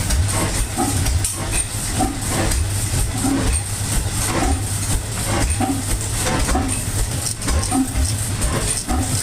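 Old Evans Manufacturing Company stationary gas engine running, with a regular low beat about one and a half times a second over a steady hiss.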